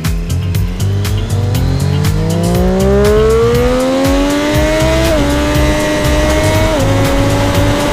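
2013 Triumph Daytona 675R's three-cylinder engine accelerating hard, its pitch rising steadily for about five seconds. It then upshifts twice, with sudden pitch drops about five and seven seconds in, over a steady low wind rumble.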